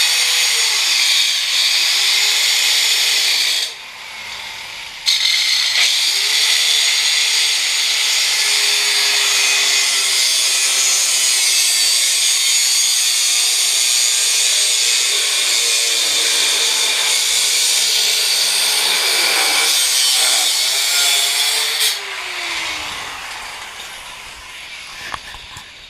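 Electric power tool cutting through a steel motorcycle handlebar: a loud, harsh, high-pitched hiss over a motor whine that sags in pitch under load. It breaks off for about a second a few seconds in, then runs on and winds down near the end.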